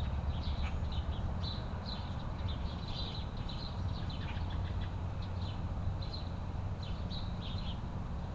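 Small birds chirping: many short, high chirps at irregular intervals, over a steady low rumble.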